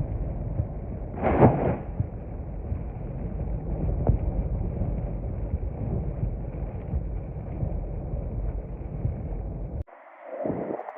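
Storm wind buffeting the microphone in a heavy, steady rumble, with one loud crash about a second and a half in; it cuts off abruptly near the end.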